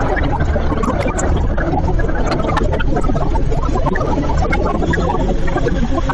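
Dense, loud layered sound-effect collage from an experimental audio-story track: a constant low rumble with many scattered sharp clicks and rattles over it.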